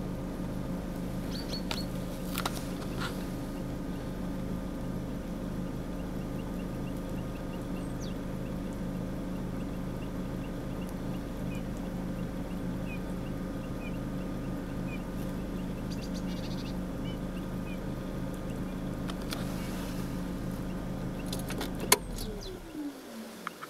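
Low steady hum of an idling vehicle engine. Near the end it cuts out with a sharp click and a falling whine. Faint short high chirps sound over it in the middle.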